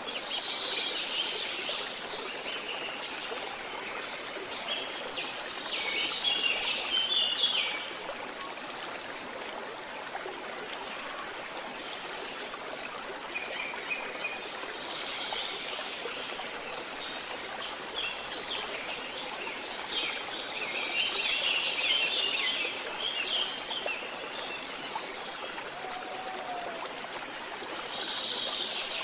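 A stream running steadily, with birds singing in several short spells of chirps over it.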